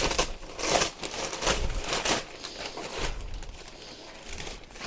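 Cardboard box and packaging rustling and scraping in irregular bursts, with a few dull bumps, as the lawn sweeper is pulled out of its carton.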